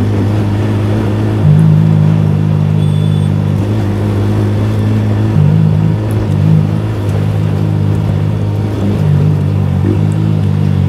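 Yamaha R15 V3's single-cylinder engine running steadily while the motorcycle cruises, at an even pitch that shifts only briefly near the end.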